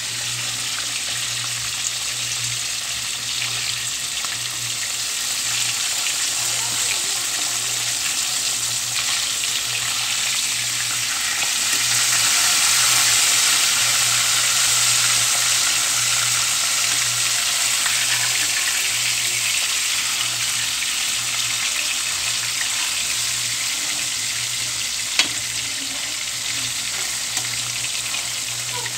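Pork chop frying in oil in a stainless steel pan: a steady sizzle that swells louder about twelve seconds in, with metal tongs scraping and knocking on the pan as the meat is turned. A steady low hum runs underneath, and a single sharp click comes near the end.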